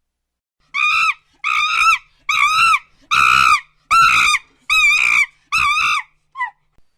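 An animal giving a series of seven high, clear cries, about one every 0.8 seconds, each rising and falling in pitch, followed by a short, weaker cry near the end.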